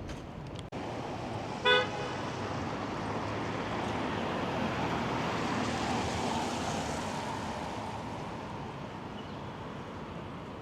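A single short car-horn toot about two seconds in, the loudest sound, over steady road traffic; a passing vehicle swells and fades through the middle.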